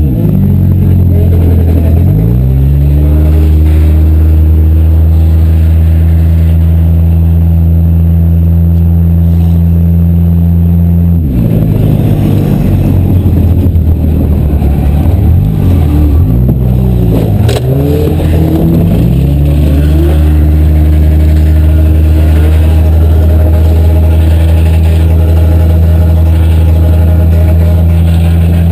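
Demolition-derby car engine running loud and close, holding steady revs. About two seconds in the revs drop and pick back up, and from about 11 to 19 seconds in they rise and fall repeatedly before settling again.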